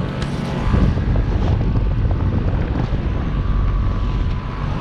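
Two residential heat pump outdoor units, a Trane XR14 and an Ameristar, running together in heat mode: a steady hum of compressors and condenser fans, with some wind buffeting on the microphone.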